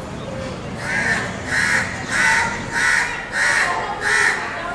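A bird giving a steady series of harsh calls, about six in a row at an even pace, starting about a second in.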